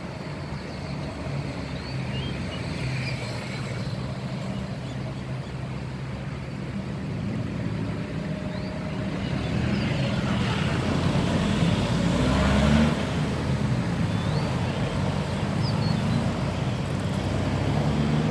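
Motor vehicle engine running, a steady low hum that grows louder through the middle and peaks about two-thirds of the way in, with a few faint, short high chirps over it.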